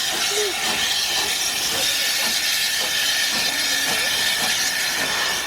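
Steam locomotive giving off a steady hiss of steam.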